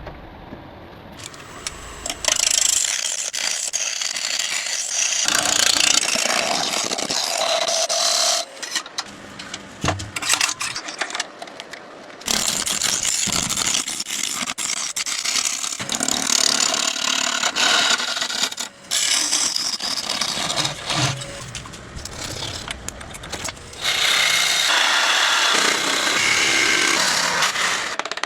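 Power tools working wood: a run of harsh, high grinding and sanding noise in stretches of a few seconds, broken by abrupt changes.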